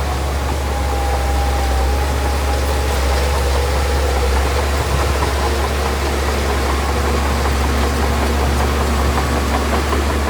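Heavy diesel earthmoving machine engine running steadily, a deep even drone with a faint higher whine over it.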